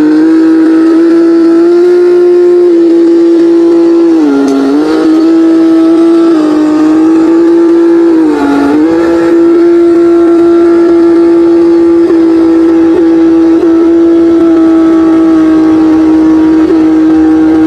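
Land Rover Defender's 300Tdi turbo diesel engine and drivetrain running under load, a steady drone that dips briefly in pitch twice, about four and eight seconds in.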